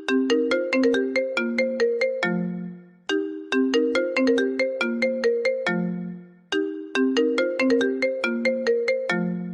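iPhone ringtone: a bright, marimba-like melody of quick notes. Each phrase ends on a lower note that fades out, then the phrase starts again, repeating about every three seconds.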